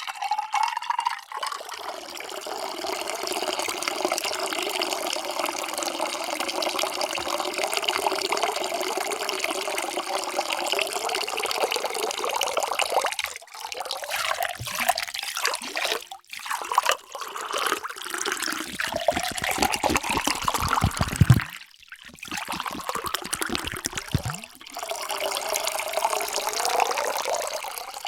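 Water poured in a stream into a container, in several pours broken by short pauses; the ringing pitch inside the vessel rises as it fills. The loudest moment is a heavier, deeper splashing a little past two-thirds of the way through.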